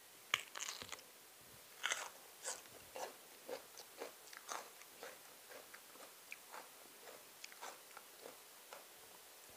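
A person chewing crunchy food with their mouth closed, at an even pace of about two crunches a second. The crunches are strongest in the first couple of seconds and then go on more softly.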